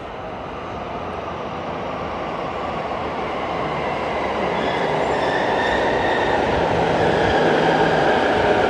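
A 10-car JR Keiyo Line electric train approaching through the tunnel into an underground platform, its rumble building steadily louder, with faint high wheel or brake squeal coming in about halfway through.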